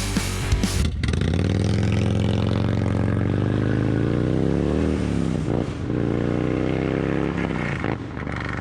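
Harley-Davidson V-twin motorcycle accelerating hard through the gears: the engine note rises steadily, drops at a gear change, climbs again and eases off near the end. Rock music plays briefly at the start before the engine takes over.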